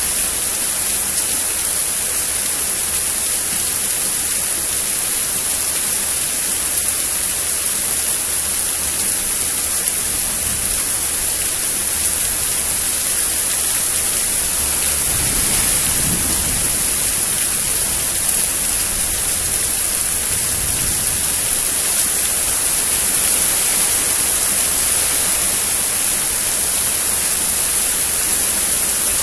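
Steady rain falling during a thunderstorm, a constant hiss, with low rumbles of distant thunder swelling about halfway through and again a few seconds later.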